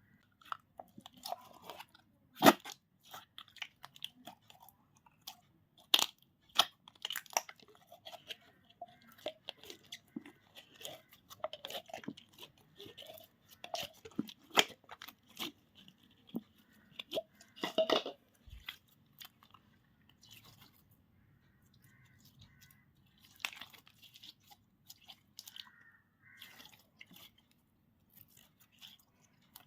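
Slime being mixed and kneaded, squishing with irregular sticky clicks and pops. A few pops stand out loudly, the loudest a couple of seconds in, and the sounds thin out and soften toward the end.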